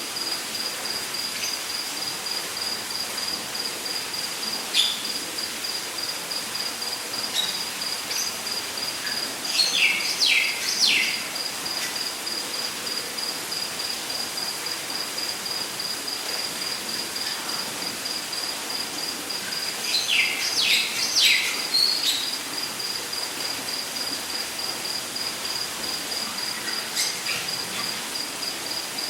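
Rainforest ambience: a cricket-like insect trilling steadily at one high pitch in fast, evenly spaced pulses, over a steady hiss. About ten seconds in and again about twenty seconds in, a bird gives a quick run of three or four falling whistled notes, with a few single chirps between.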